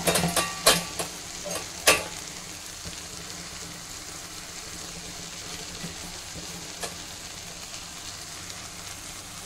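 Chopped raw okra tipped into a hot pan of fried masala: a few sharp knocks in the first two seconds, then a steady, gentle sizzle of frying.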